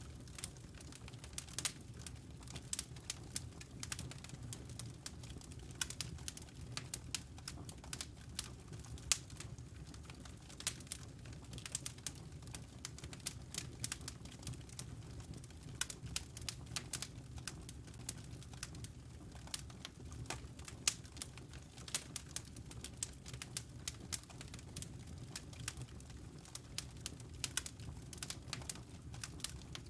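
Wood fire crackling: a dense, irregular run of small snaps and a few louder pops over a low, steady rumble.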